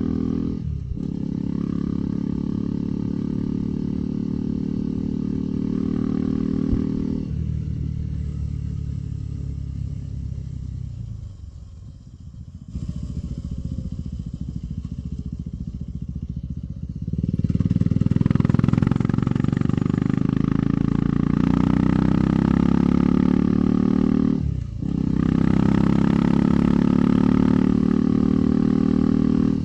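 KTM 390 Adventure's single-cylinder engine running under a rider on the move. The engine note falls and fades as the bike slows about a third of the way in, stays low for a few seconds, then comes back louder as it pulls away. There are brief drops at gear changes near the start and about three-quarters through.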